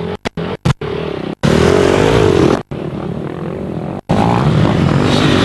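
Off-road motorcycle engine running under load, its pitch rising and falling as the throttle is worked, with two louder revving pushes. The sound cuts out completely for a moment several times, mostly in the first second.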